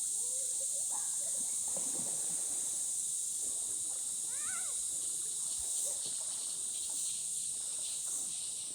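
Cicadas droning in a steady, high-pitched chorus, with a few faint bird chirps about halfway through.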